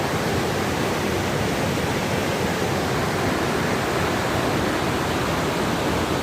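Waterfall and rushing stream water making a steady, unbroken roar of noise.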